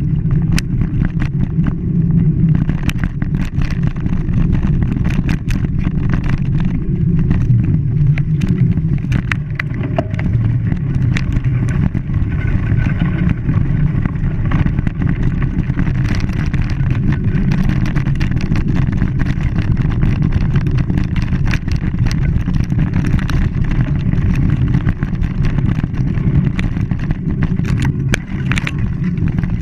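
A vehicle's steady low rumble, with scattered short clicks throughout.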